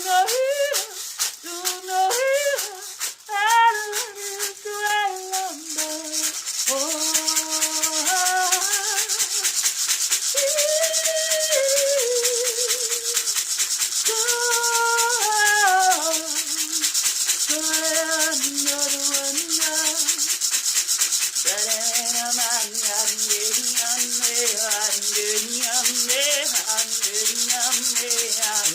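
A woman's voice singing a wordless light-language melody in long held notes that slide between pitches and waver, over a hand rattle shaken steadily and fast throughout.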